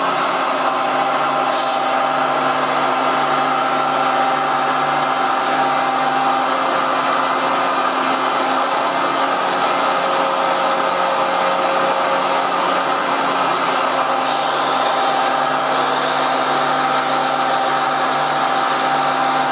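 Electric motors and gearboxes of a radio-controlled construction model running with a steady whine, with two brief high hisses along the way.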